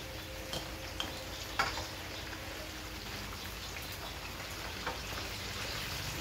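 Pork ribs frying in hot oil in a wok, a steady sizzle, as the cooked ribs are spooned out. A few metal clinks of the spoon against the wok and the strainer bowl, the loudest about one and a half seconds in.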